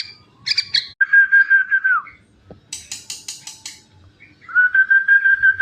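A person whistling two long, steady notes, each sliding down at the end, to a hand-raised young yellow-vented bulbul. The bulbul gives a short call near the start and a quick run of high chirps between the two whistles.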